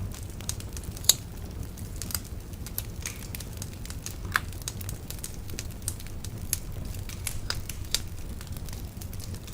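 Wood bonfire crackling: irregular sharp pops and snaps of varying strength over a steady low rumble, with one loud pop about a second in.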